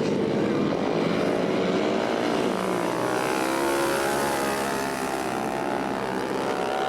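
Several flat-track racing motorcycles running at race speed. Their engines overlap in a continuous drone, each rising and falling in pitch as the riders get on and off the throttle around the oval.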